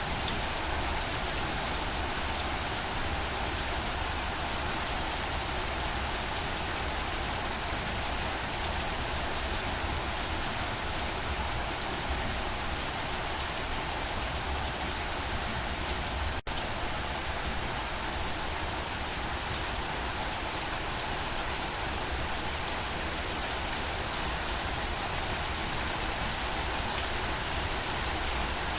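Steady rain falling on a surface, a dense even patter of drops, with a split-second break a little past halfway.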